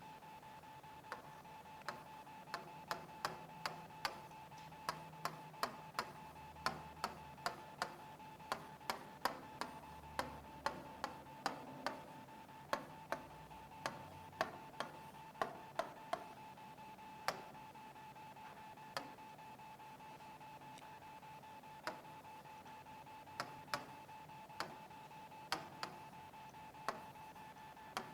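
Sharp, irregular clicks over a faint, steady, high-pitched electrical hum. The clicks come quickly for the first half, then only now and then.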